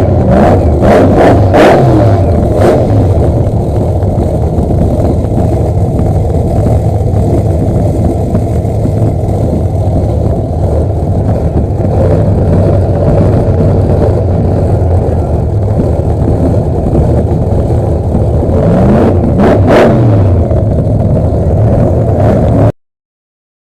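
Loud car engine running, revved up and down a few times near the start and again near the end, then cutting off suddenly.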